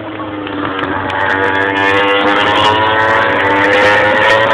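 Several MotoGP race motorcycles with 800cc four-stroke engines at high revs, growing louder as they come closer, their engine notes overlapping and rising in pitch as they accelerate.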